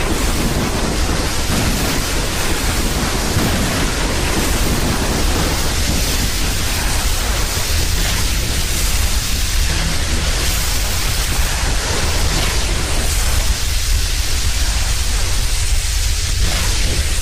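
Steady, loud rushing noise spread evenly across all pitches, with a deep low rumble beneath it.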